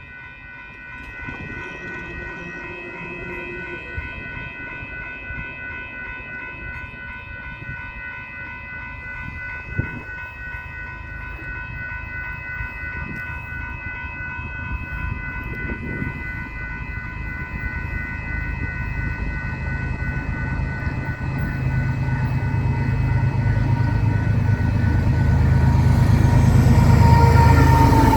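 Railroad grade-crossing bell ringing steadily and evenly while a train approaches. The train's low rumble grows steadily louder through the second half.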